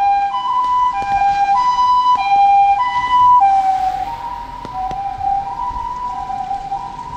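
Ambulance siren sounding a two-tone hi-lo call, a higher and a lower tone alternating about every half second. About halfway through, both tones drop a little in pitch and the siren grows fainter as the vehicle passes and drives away.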